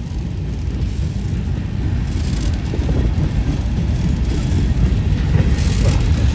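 Freight train rolling by, a low rumble that grows steadily louder.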